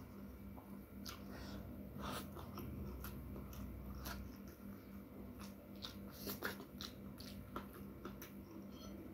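Close-miked chewing with small wet mouth clicks and crackles, from a person eating a rice meal by hand.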